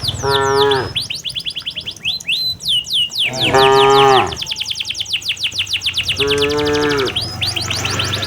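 Cattle mooing three times, each call about a second long and falling in pitch at the end, over birds chirping rapidly and continuously.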